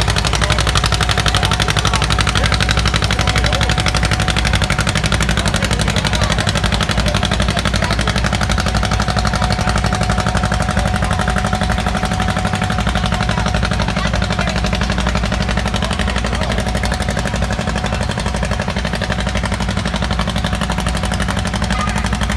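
Tractor engine running hard at high revs with a loud, rapid, steady exhaust beat, typical of a pulling tractor under full throttle.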